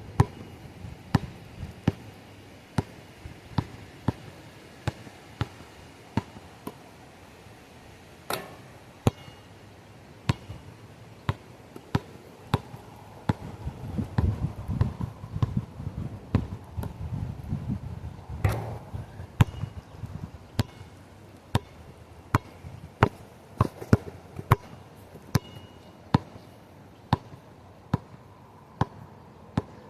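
Sharp knocks repeating about once or twice a second, with a low rumble of wind in the middle stretch.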